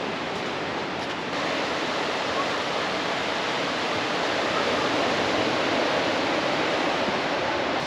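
Steady rush of surf washing onto a beach, a little louder from about a second in.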